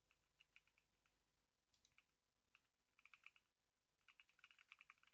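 Faint typing on a computer keyboard: scattered keystrokes, then two quick runs of typing in the second half.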